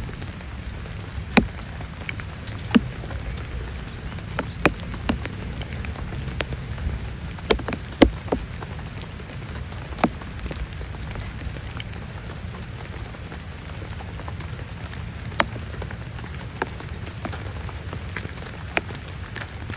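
Heavy rain falling steadily, with single big drops striking a surface as sharp taps at irregular intervals.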